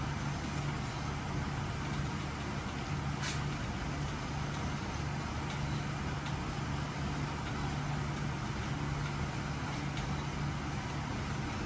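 Steady low hum over an even rushing background noise, with one short sharp tick about three seconds in.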